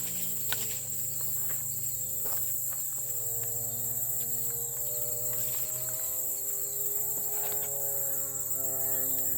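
A steady, high chorus of insects, with a low hum under it that slowly drifts in pitch and a few faint clicks.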